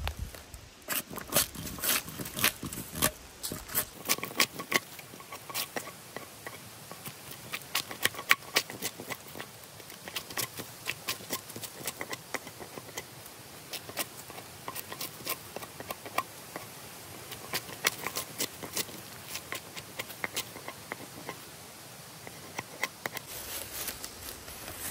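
Irregular series of light, sharp clicks and taps, several a second, from hand work.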